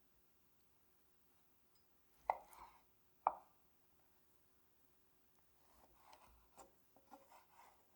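A kitchen knife chopping on a cutting board: two sharp chops about a second apart, then a run of softer cuts and scrapes a few seconds later.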